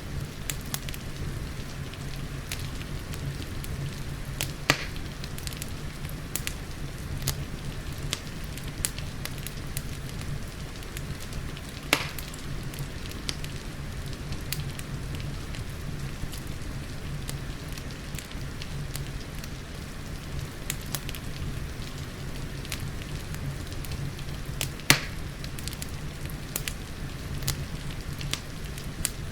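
Wood fire crackling in a fireplace, with constant small ticks and three louder sharp pops, over a steady hiss of rain and a low rumble.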